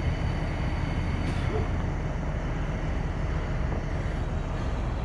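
Bucket truck's engine running steadily as a low rumble.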